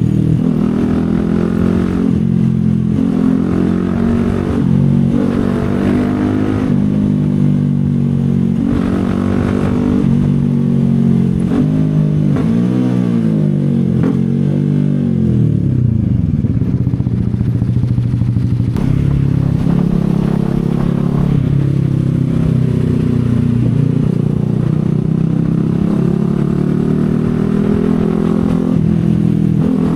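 CFMoto 250SR Lite's single-cylinder engine running under way, its revs climbing and dropping again and again through acceleration and gear changes. About halfway through, the revs rise and fall, then settle low and build up again.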